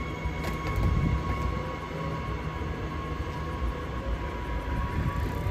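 Electric suburban train running: a steady high electrical whine over a low rumble, with a heavier rumble about a second in.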